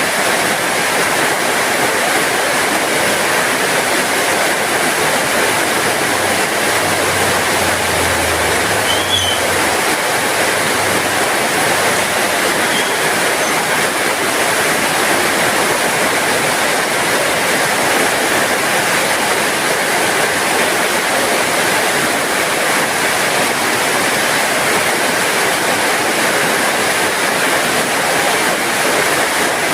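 Heavy rain falling steadily, an even hiss with no let-up. A faint low rumble comes in for a few seconds in the middle.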